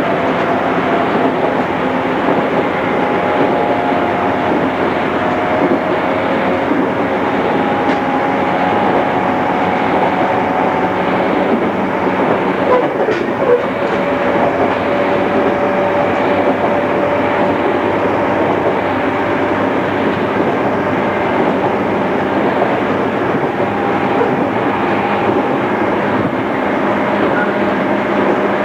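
Interior running sound of a JR East 211 series electric train with inner-fan traction motors: a steady rumble of wheels on the rails with a faint whine of motor and gears, and a single small knock about halfway through.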